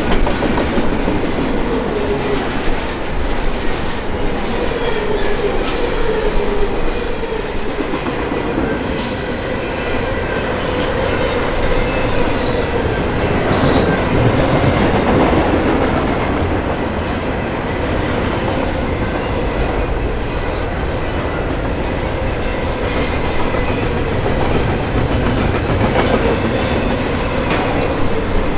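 A train rolling past, its cars' wheels clattering steadily over the rails.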